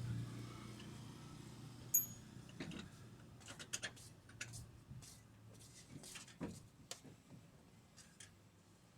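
A sharp click about two seconds in, then a scattered run of small clicks and light taps, over a faint steady low hum.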